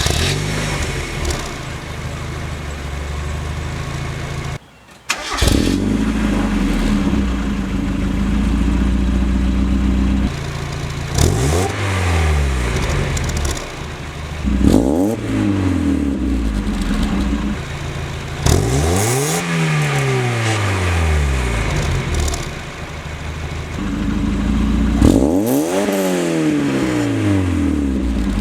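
Mazda Miata's inline-four engine running through a new Cobalt cat-back exhaust, heard from outside the car. It idles steadily, with a short break about five seconds in, and is blipped four times, each rev rising and falling back to idle; the third rev is held longest.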